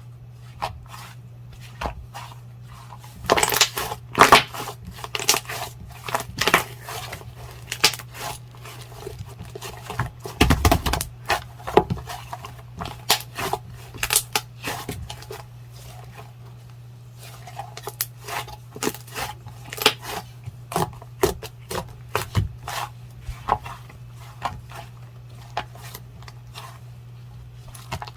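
Hands pressing, stretching and folding clear jelly slime, making irregular sticky clicks and small popping crackles in quick clusters.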